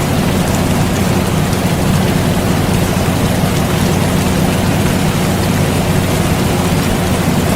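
Steady rain mixed with the constant low hum of an air conditioner, both even and unchanging throughout.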